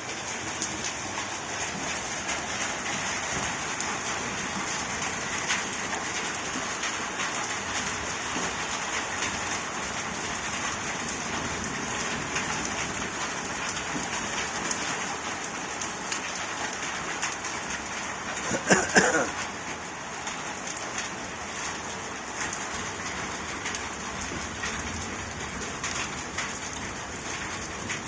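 Hail and rain falling steadily, the hailstones striking surfaces in many sharp ticks over the hiss of the rain. About two-thirds of the way in, a brief louder sound with a changing pitch rises above it.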